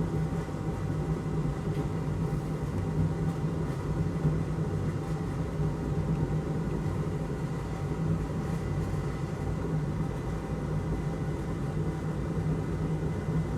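Steady hum of a running fan or motor on the workbench, with a constant low drone and a faint high whine over it.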